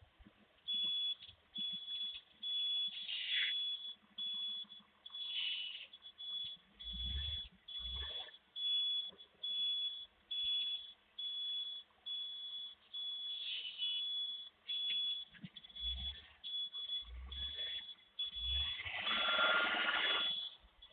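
Garbage truck's high-pitched reversing alarm beeping over and over at a steady rate, with a few low thuds and a louder rushing burst of truck noise near the end.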